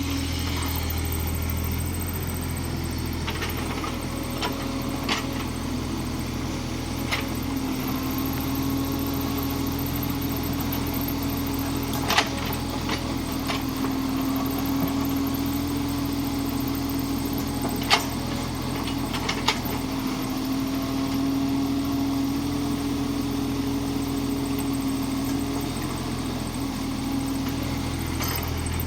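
Kubota mini excavator's diesel engine running steadily as the machine works, its note growing stronger and easing off at times. A few sharp clanks come through, the loudest about twelve and eighteen seconds in.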